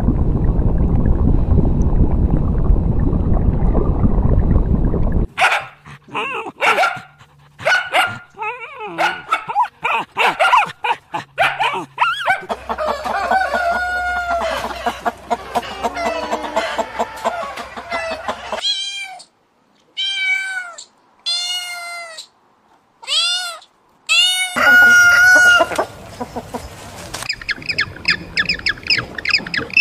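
A run of different animal calls cut one after another. It begins with about five seconds of loud, low, rough noise, followed by clicks and varied calls. About two-thirds of the way in comes a string of short cat meows, and near the end a fast series of high calls.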